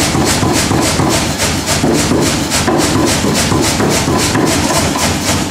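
Power hammer striking hot stainless steel bar in a fast, even rhythm of about five blows a second over a steady low rumble, drawing out 12mm round bar into a forged arm.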